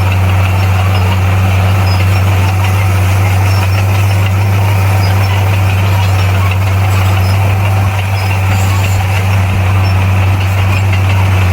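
Komatsu D58P bulldozer's diesel engine running at a steady, unchanging speed with a deep drone.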